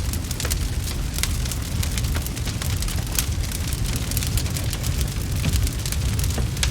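Wood fire crackling steadily in a fireplace, with many quick, irregular pops and snaps over a constant low rumble.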